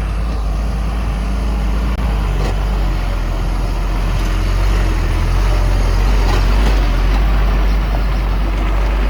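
Heavy earthmoving machine's diesel engine running steadily: a loud, deep rumble.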